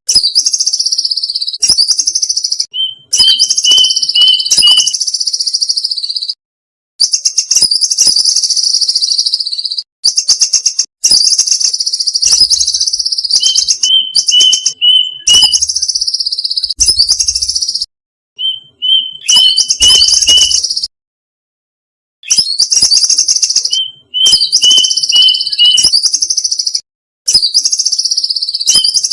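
Violet cuckoo calls from a bird-lure recording: runs of short, evenly repeated high notes alternating with fast series of high, falling notes. The calls come in bursts that cut off abruptly, with brief silences between them, as in an edited, looped track.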